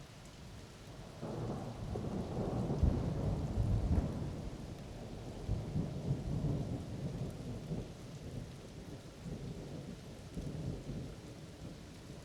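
Thunder rolling in about a second in, loudest a couple of seconds later, then rumbling on in weaker waves and easing off near the end, over steady rain.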